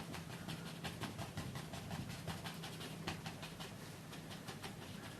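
Bristle brush dabbing and scrubbing oil paint onto a canvas in quick short strokes, about five scratchy taps a second, over a low steady hum.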